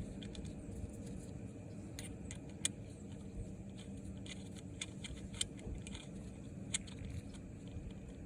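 Light metallic clicks and clinks of hand tools and bolts as ignition coils are fitted and bolted in place, scattered irregularly over a steady low hum.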